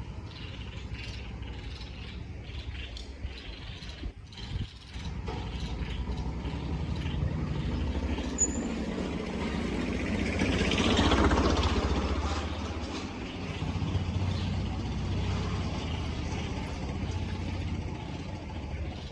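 Street traffic: a steady low engine rumble, with a vehicle passing loudly about eleven seconds in.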